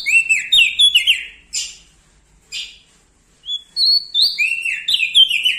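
Prenjak daun singing loudly: two matching song phrases about four seconds apart. Each phrase is a couple of high notes followed by a quick run of stepped, falling notes, with short scratchy calls in between.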